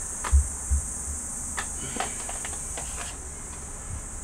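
A steady high-pitched hiss, with two soft low thumps about half a second in and a few light clicks later.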